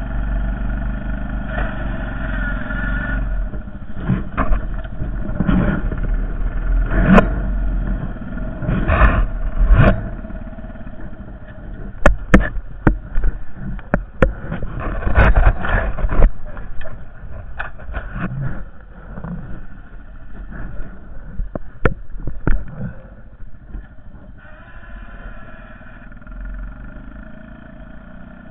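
Honda Foreman 450 ES ATV's single-cylinder engine running, with a long stretch of sharp knocks and clattering through the middle as the machine jolts while plowing snow, then steady engine running again near the end.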